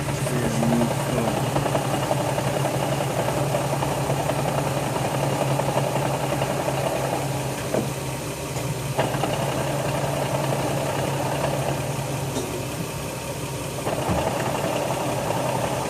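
Nissan 350Z's V6 idling at a standstill, with a knocking, grinding sound from the clutch when the pedal is pushed in. The grinding eases off for a few seconds in the middle and comes back. It persists even though the clutch, pressure plate, flywheel, throwout bearing and slave cylinder have all been replaced.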